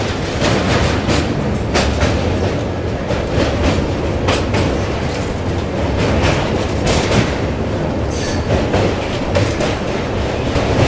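Passenger train running across a steel truss bridge, heard from aboard: a steady loud rumble of wheels on the rails, broken by irregular sharp clacks of wheel clatter.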